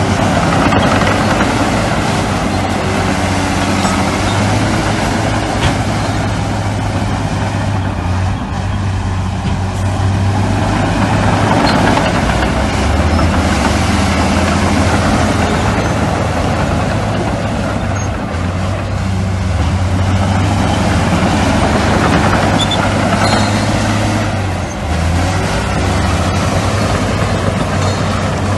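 Heavy diesel construction machinery running steadily: a low engine drone that shifts in pitch a few times, with a noisy rumble of work over it.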